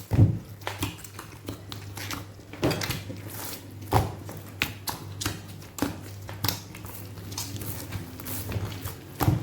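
Soft bread dough being worked by hand on a surface: irregular slaps and taps, the loudest just after the start, around the middle and near the end, over a steady low hum.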